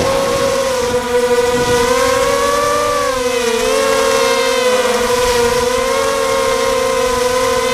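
Quadcopter's electric motors and propellers whining, the pitch rising and dipping as the throttle changes against strong wind, with wind rumbling on the microphone.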